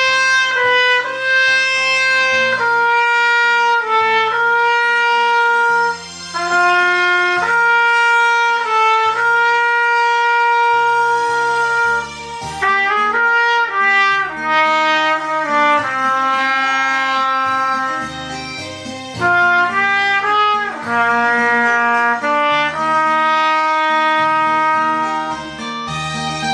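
A brass instrument playing a slow melody of long held notes over a backing accompaniment with low chords.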